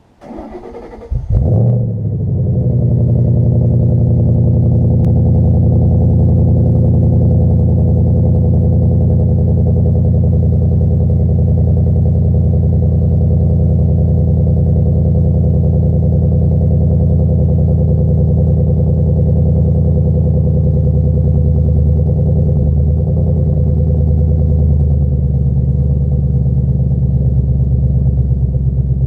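A 2013 Ford Mustang GT's 5.0 L V8 with an RTR axle-back exhaust cold-starting: the starter cranks for about a second, the engine catches with a flare of revs and settles into a fast, pretty loud cold idle. The idle eases down slightly near the end as the engine warms.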